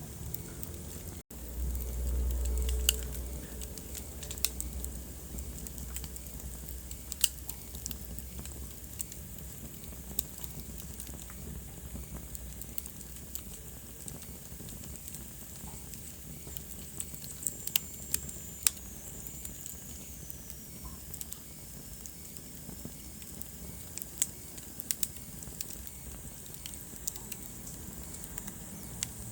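Wood fire burning in a fireplace: steady hiss with irregular sharp crackles and pops. About a second in, the sound drops out for an instant and is followed by a low rumble for about two seconds. Around the middle, a faint high whistle falls slowly in pitch.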